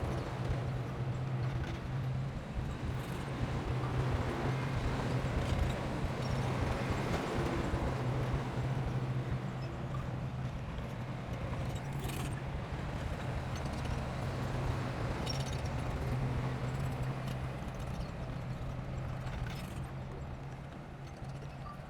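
Heavy construction machine's diesel engine running steadily with a low drone, with a few faint knocks and clanks over it. It gets slightly quieter near the end.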